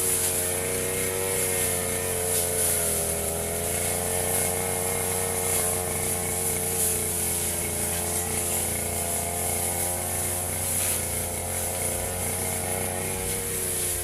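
Firman FGB 528 petrol brush cutter running at high speed while cutting grass. The engine note is steady, with a slight dip in pitch a few seconds in.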